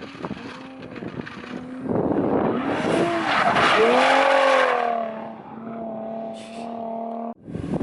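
A drift car's engine revving up and down as the tyres squeal through a slide, loudest in the middle. The revs then hold steady before the sound cuts off suddenly shortly before the end.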